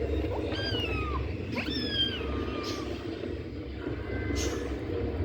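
Cat meowing twice, two high calls that each fall in pitch, over a steady low hum.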